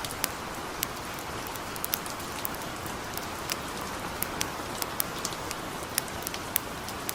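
Steady light rain, mixed with the irregular sharp pops and crackles of a campfire, about one or two pops a second.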